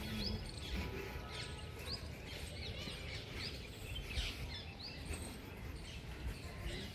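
Small birds chirping, short rising calls about once a second, over a steady low rumble of outdoor background noise.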